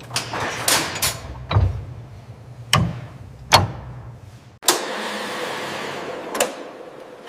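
Factory sound effects: a run of sharp knocks and clanks over a low steady hum. A little past halfway the sound cuts abruptly to a steady hiss, with one more knock near the end.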